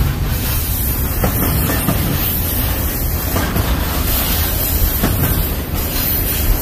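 Double-stack intermodal freight train's well cars rolling past, a steady running noise of steel wheels on rail with scattered clicks as the wheels cross rail joints.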